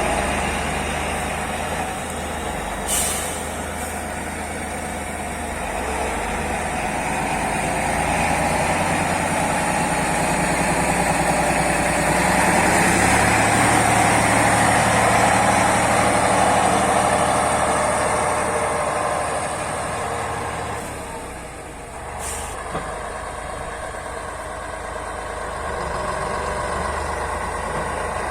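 Turbocharged YaMZ-236 V6 diesel of a T-150 wheeled tractor running steadily, getting louder through the middle and easing off near the end. Two short sharp hisses cut in, one a few seconds in and one about three quarters of the way through.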